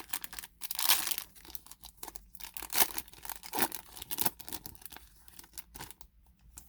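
A sealed baseball card pack wrapper being torn open and crinkled in the hands, a dense run of tearing and crackling that thins out over the last couple of seconds.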